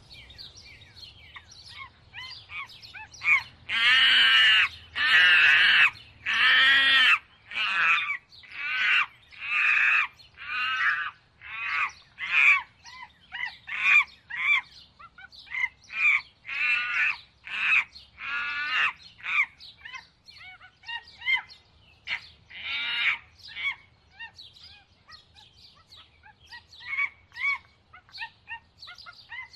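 Birds calling: a run of repeated harsh, squawking calls. A few long loud calls come early, then shorter ones follow about once a second and grow fainter in the later part.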